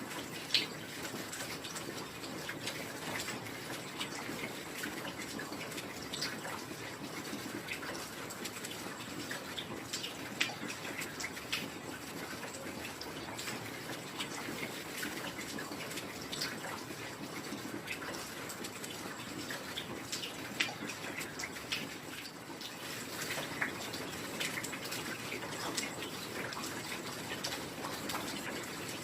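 Heavy rain falling steadily: a constant hiss with many scattered sharp drop hits.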